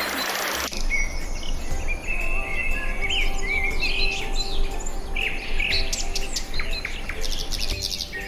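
A chorus of several small birds chirping and calling, with short overlapping chirps, trills and whistles. A rushing, water-like hiss cuts off suddenly under a second in.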